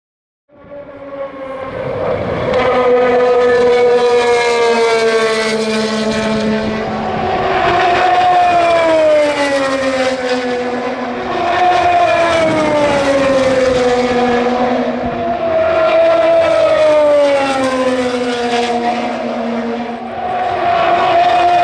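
IndyCar 2.2-litre twin-turbo V6 engines at speed on an oval. Several cars are heard together, their engine notes rising and falling about every four seconds as cars pass.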